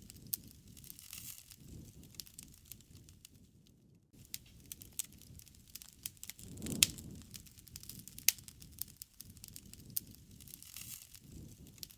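Wood fire burning, crackling with scattered sharp pops over a low rumble of flame. The loudest pop comes about seven seconds in, and the sound dips briefly just before four seconds in.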